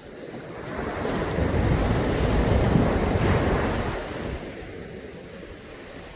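Caribbean Sea wave breaking on the beach: the surf noise swells about a second in, peaks, then washes out and fades over the next few seconds.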